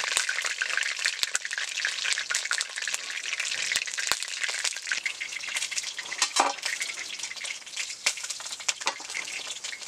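Chicken leg pieces frying in hot oil in an iron wok: a steady sizzle full of sharp crackles and pops, with the spatula scraping as the pieces are turned.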